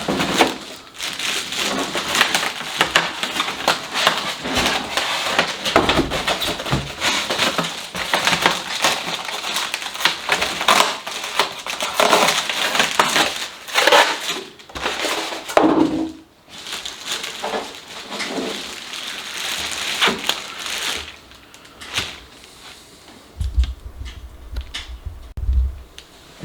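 Polystyrene foam packing being pulled off and broken away from an electric fireplace by hand: a dense run of crunching and crackling with many sharp clicks. It eases off near the end, where there is a low rumble of handling.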